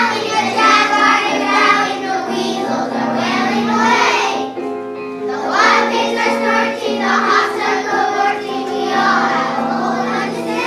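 A group of children singing together over an instrumental accompaniment, with a short pause between phrases about halfway through.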